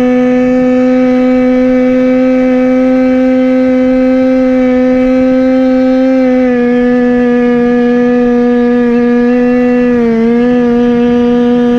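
Goped scooter's CY26RC two-stroke engine, taken from an HPI 5th-scale RC car, running steadily at high revs while riding. Its pitch dips slightly a little past halfway and again near the end.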